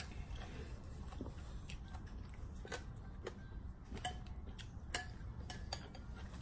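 Eating utensils tapping and clinking against bowls during a meal of noodle soup, a dozen or so light, irregular clinks, a few with a short ring.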